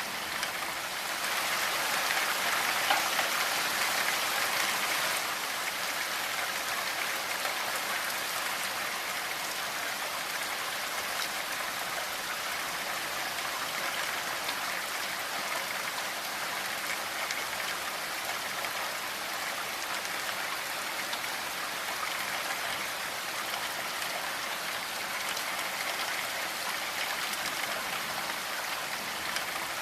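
Steady rainfall, an even hiss of falling rain, a little heavier for a few seconds near the start.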